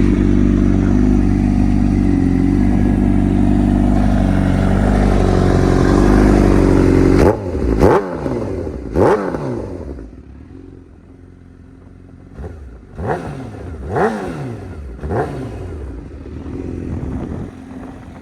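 2016 Honda CBR1000RR's inline-four engine idling steadily, then revved in about six quick throttle blips from a little past the middle, each rising sharply and falling back to a quieter idle.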